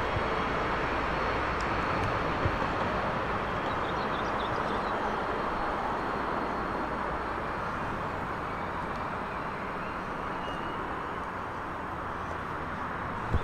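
Train running through the station, a steady rolling noise that slowly fades, with a few low knocks near the start.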